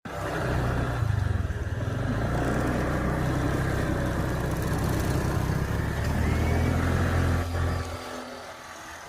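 An engine running steadily with a low rumble, dropping away about eight seconds in.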